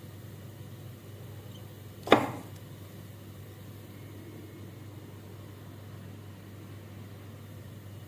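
A single sharp click about two seconds in that rings briefly, over a steady low hum.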